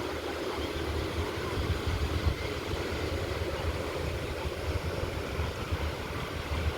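Wind buffeting the microphone with an uneven low rumble, over a steady rush of surf.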